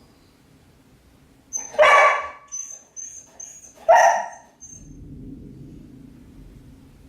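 A dog barks twice, about two seconds apart, with a string of short, high squeaks between the barks. A low rumble starts just after the second bark.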